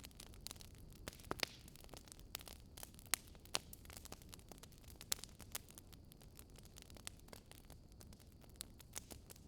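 Wood fire in a fireplace crackling: irregular sharp snaps and pops over a low steady rush of the flames, with a few louder pops about a second and a half in, around three seconds in and about five seconds in.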